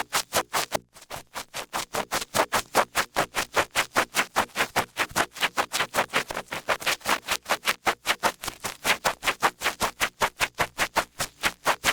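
Small ear pick scraping inside an ear in quick, even strokes, several a second, with a brief pause about a second in.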